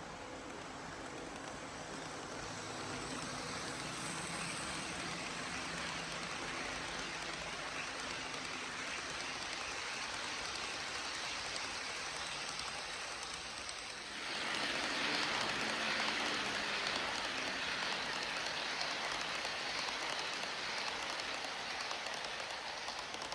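Amtrak Crescent passenger train rolling past, a steady rushing of wheels on rail that grows louder about 14 seconds in.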